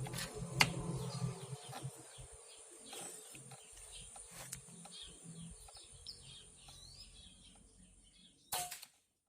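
Sparrows chirping over and over, in many short falling chirps, over a steady high hiss. There are a few sharp clicks, the loudest about half a second in, and a short louder burst of noise near the end.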